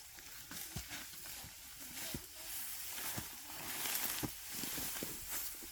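Dry rice stalks rustling and crackling as they are handled in bundles, with irregular soft knocks and clicks.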